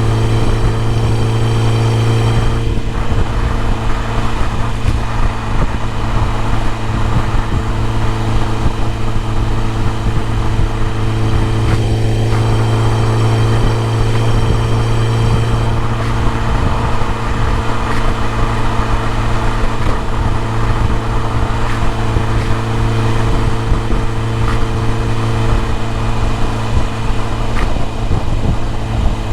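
BMW E30 M3's four-cylinder engine running at a steady, unchanging speed, a constant drone with no revving.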